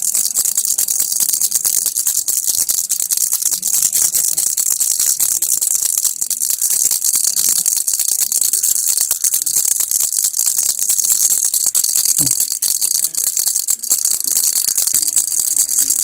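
Baby rattle shaken without pause: a steady, dense stream of rapid high-pitched rattling.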